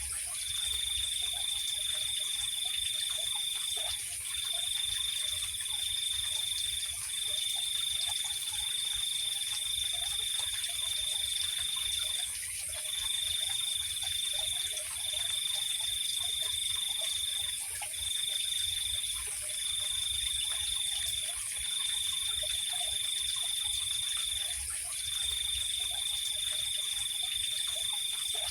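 Night chorus of insects: one high trill runs in long stretches of several seconds, broken by short gaps, over a steady higher-pitched hum, with faint scattered short calls lower down.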